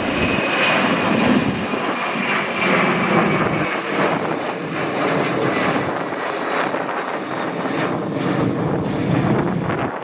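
Airliner engines running loud as a plane passes close to the runway, with a faint high whine in the first few seconds that fades away. Gusts of wind buffet the microphone near the end.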